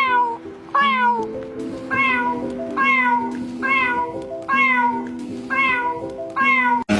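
Cat meowing over and over, short high calls that fall in pitch, about once a second; the meows are chirpy and bird-like. Background music with held notes plays underneath.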